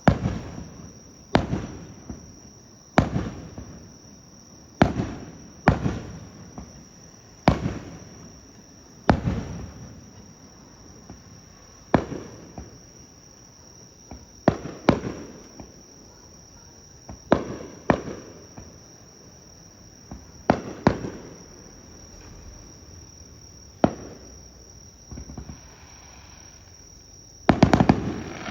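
Aerial fireworks shells bursting one after another, each a sharp bang with a booming echo, every one to three seconds, ending in a quick cluster of bangs. A steady high insect trill sounds underneath.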